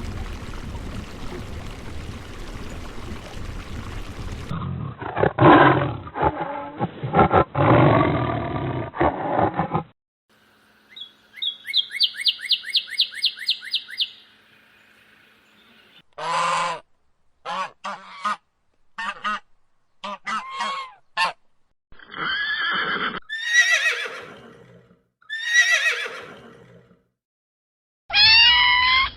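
A series of different animal calls edited one after another: harsh calls, then a fast run of high repeated notes, then short separate calls, and near the end several falling cries.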